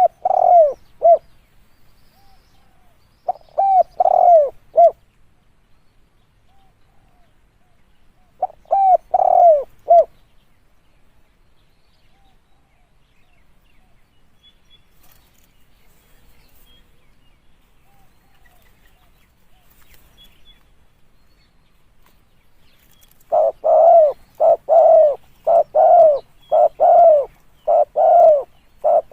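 Spotted dove cooing: three short phrases of three or four low coos, a long pause, then a run of about a dozen coos at roughly two a second. It is a recorded call used to lure spotted doves.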